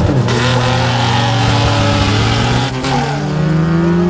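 Drag-race car engines at full throttle accelerating away down the strip, their pitch climbing steadily, broken by a brief dip about three seconds in.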